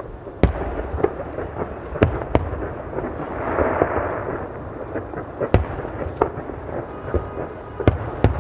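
Aerial fireworks shells bursting: about seven sharp booms spread unevenly, with a rushing crackle that swells and fades in the middle.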